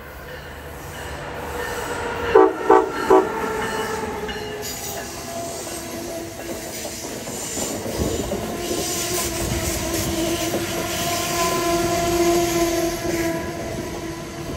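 Amtrak passenger train with Amfleet coaches sounding three short horn blasts as it approaches, then its cars rolling past with a steady rumble and hum that builds and holds.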